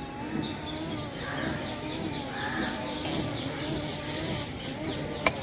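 Birds chirping in quick repeated calls over a steady low hum, with one sharp click near the end.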